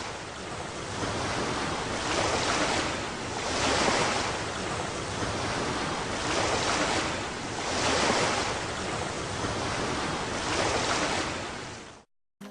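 Rushing noise like surf, swelling and ebbing about every two to three seconds, with no crackle or clicks; it cuts off suddenly near the end.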